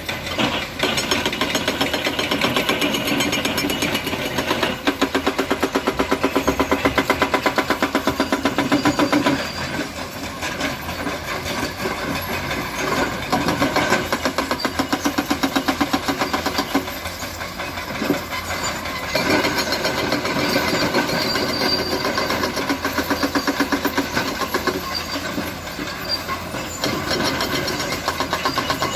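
Diesel engine of a concrete truck mixer running steadily with a fast, even pulse. It grows louder for a few seconds, then drops back about a third of the way in.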